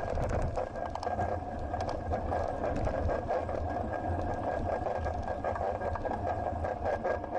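Riding noise picked up by an action camera mounted on a moving bicycle: steady wind and road rumble with a continuous thin whine and many small rattles and clicks from the bike.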